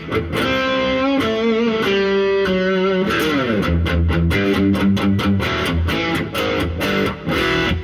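Electric guitar played through a 1964 Epiphone Pacemaker 10-watt tube amp with a 10-inch Kendrick Black Frame speaker, with gain pedals switched on in front of it. It plays a phrase of single notes and chords, with bent notes about three seconds in.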